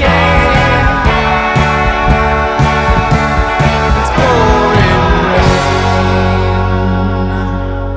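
Rock band playing with guitars, bass and drums hitting at a steady beat; about five and a half seconds in the drums stop and a final chord is left ringing, slowly fading out.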